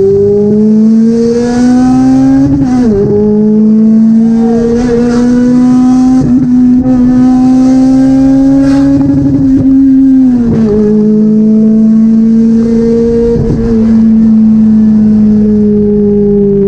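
Toyota 2ZZ-GE 1.8-litre inline-four engine in a Corolla running under load, its pitch climbing slowly. The pitch dips suddenly twice, about 3 seconds and 10 seconds in, then steadies and falls gently near the end.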